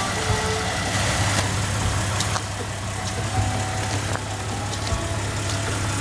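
Jeep Grand Cherokee engine idling: a steady low hum with a few short clicks, a little quieter after about two seconds.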